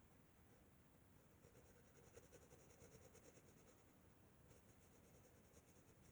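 Faint scratching of a coloured pencil stroking quickly back and forth on paper in two spells, filling in an area with black.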